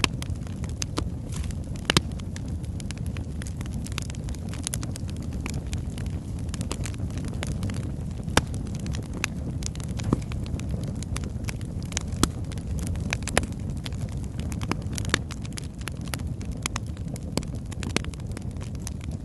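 Wood fire burning in a fireplace: a steady low rumble of flames with frequent crackles and pops from the logs, a few of them sharper and louder.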